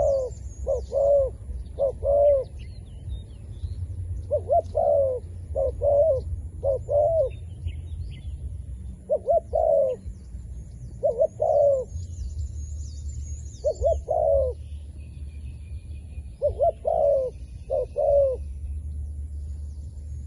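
Zebra dove cooing: short groups of two or three quick pitched notes, repeated every second or two, over a steady low rumble. Faint high chirps sound in the background.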